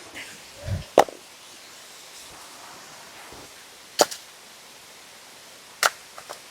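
Three sharp cracks of something being struck: one about a second in, one at four seconds and one near the end, with a dull thud just before the first.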